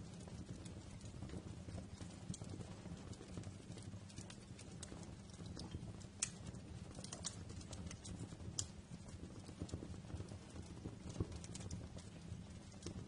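Wood fire crackling in a fireplace: irregular sharp pops and snaps over a low, steady rumble of the flames, the sharpest pops about six and eight and a half seconds in.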